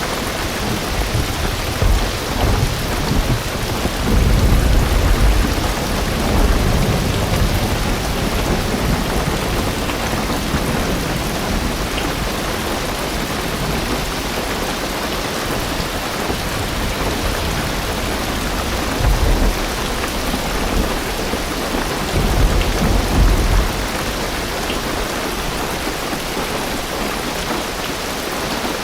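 Heavy rain drumming on a car roof and windows, a steady hiss. Low rolls of distant thunder swell through it several times, the longest about four seconds in and another around twenty-two seconds.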